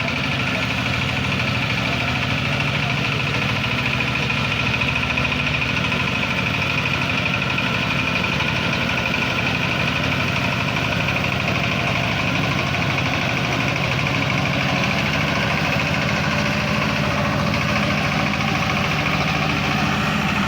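An engine idling steadily at an even speed, with a fast, regular firing pulse and no revving.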